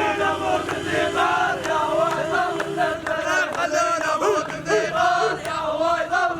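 A crowd of many voices chanting and singing together, overlapping throughout.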